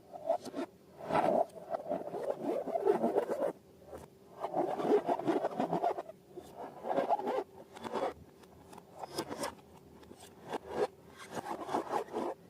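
Sticky slime being worked by hand, giving crackly, clicking squelches and scrapes in about six bursts of roughly a second each, with short pauses between them.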